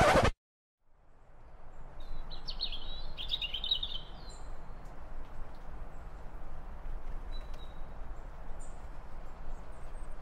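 Loud music cuts off at once; after a moment of silence a steady background hiss fades in, with songbirds chirping in short twittering phrases over it, most busily a few seconds in.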